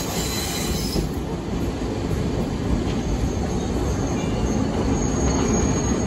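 Sagano Romantic Train running along the rails, heard from on board: a steady rumble of wheels on track. Faint high wheel squeal comes in after the middle.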